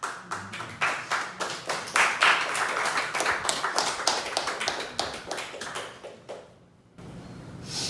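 A small group of people clapping in quick, uneven claps that thin out and die away after about five seconds.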